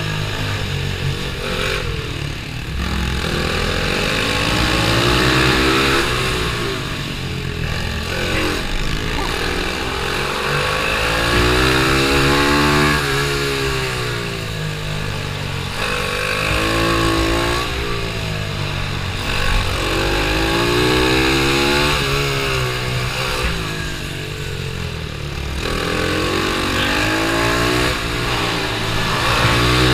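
Pit bike engine running hard through a race lap, its pitch climbing again and again as it accelerates and dropping back as it slows for corners.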